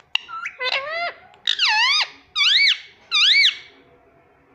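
Ringneck parrot (rose-ringed parakeet) calling: a run of about five shrill calls, each swooping down and back up in pitch, the last three loudest.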